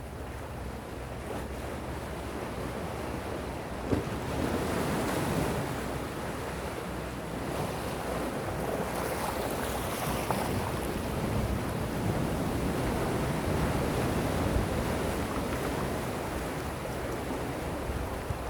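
Calm sea waves washing onto the shore in a continuous wash that swells about four seconds in and stays up, with wind rumbling on the microphone.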